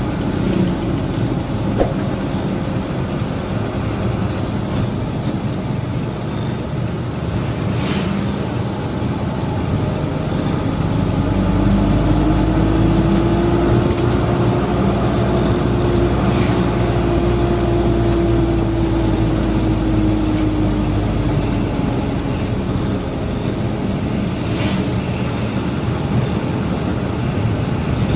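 Dump truck engine running with a steady low drone. About eleven seconds in the engine note climbs and grows louder, holds, then falls back by about twenty-two seconds.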